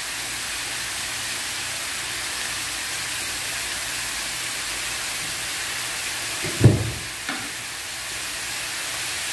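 Pork ribs sizzling steadily in hot oil in a pan, with one short dull thump about two-thirds of the way through.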